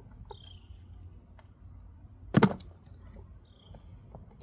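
A single sharp knock of a hard object against the case, over a steady high-pitched background whine with two faint short chirps.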